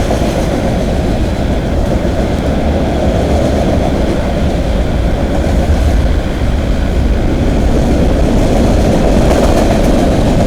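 Freight train rolling past at speed: a steady, continuous rumble of steel wheels on the rails.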